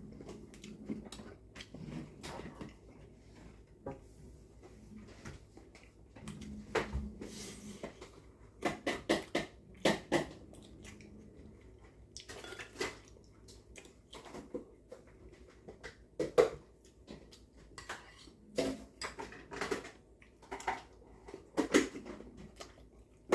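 Dishes and cutlery clinking and knocking at a meal table, a string of scattered short taps, a few of them louder.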